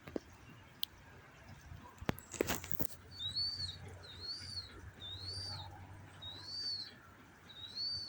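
An animal's high whistled call, rising and falling, repeated five times about once a second, after a few sharp knocks near the start.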